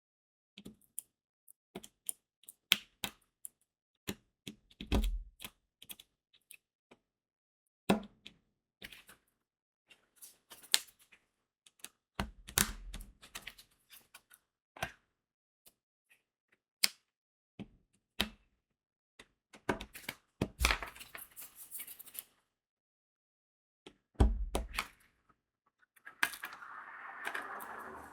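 Diamond painting work: crystal drills being pressed onto the sticky canvas with a drill pen, an irregular run of sharp clicks with a few duller knocks. Two stretches of rattling near the end, like beads being shaken or poured in the tray.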